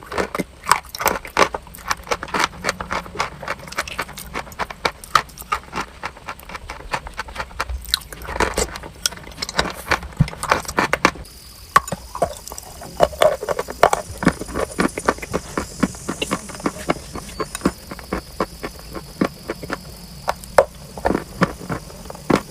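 Crunchy chalk and clay cracking and crumbling, a dense run of sharp, irregular crunches. A steady high hiss joins about halfway.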